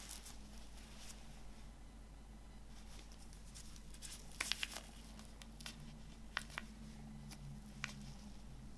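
Light clicks and taps of box-set items being handled, a quick cluster about halfway through and a few single ones after, over a faint steady hum.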